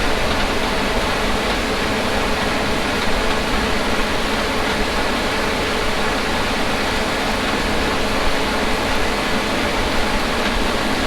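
Harvest machinery running steadily: an even, loud wash of noise with a faint constant hum underneath.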